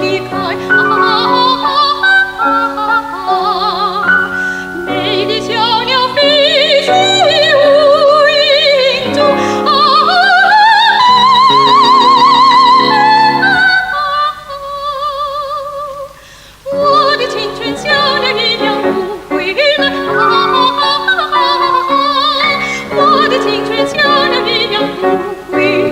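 Soprano singing a Xinjiang folk song in a classical, operatic style with wide vibrato, over sustained instrumental accompaniment. About ten seconds in the voice climbs to a long high note. Near the middle the sound thins to a soft held note, then the full singing and accompaniment resume.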